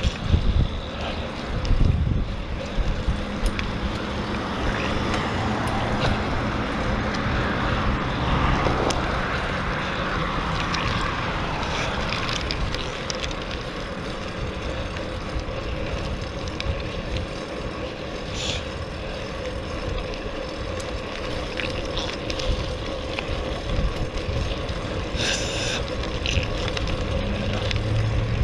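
Wind rushing over a shoulder-mounted GoPro microphone while riding a fixed-gear bike, with road and tyre noise and a steady hum underneath. A few knocks in the first couple of seconds.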